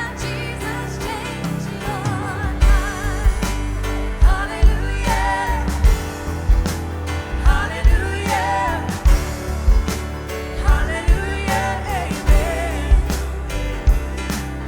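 Live contemporary worship band playing with singing: drums, bass, guitars, keys and voices, with the drums and bass coming in fully about two seconds in.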